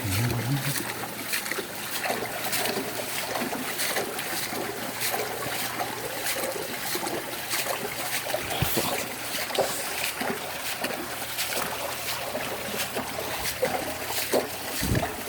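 Rain and floodwater: a dense, irregular patter of drops and splashes over a steady rush of running water, with a faint low hum underneath.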